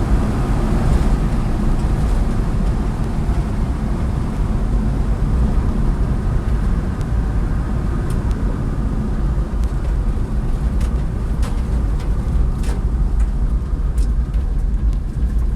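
1995 Mitsubishi 4x4 mini truck driving, its small engine and road noise a steady low rumble heard from inside the cab. The engine runs well.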